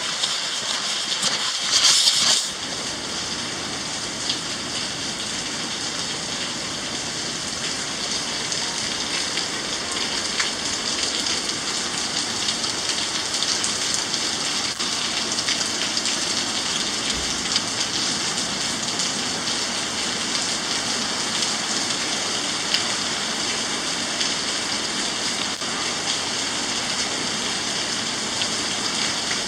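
Steady rain falling from a thunderstorm, an even hiss throughout. About two seconds in there is a brief louder burst of noise.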